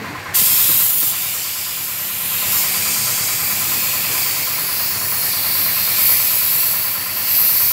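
Paint spray gun hissing steadily with compressed air, starting abruptly a moment in, over a low, evenly pulsing engine running underneath.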